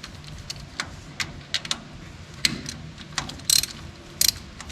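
Socket ratchet wrench clicking in short, uneven strokes while loosening the hydraulic filter cover on a tractor, with a few louder metal clinks of the tool.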